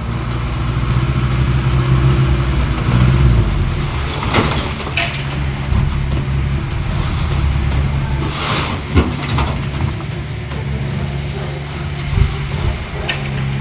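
Heavy diesel engine of construction machinery running steadily, with several sharp knocks and clanks from the work. The loudest knock comes about nine seconds in.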